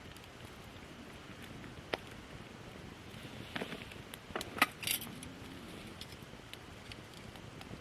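Wood campfire of gathered branches burning, with scattered sharp pops and snaps, a cluster of them about halfway through, the loudest a single sharp snap.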